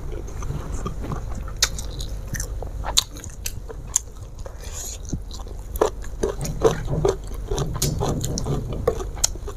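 Close-miked mouth sounds of a person eating: chewing with wet lip smacks and sharp mouth clicks, thickest in the second half, over a low steady hum.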